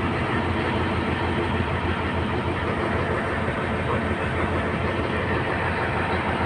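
Heavy diesel engine of a road recycler (soil stabiliser) running steadily at a constant level.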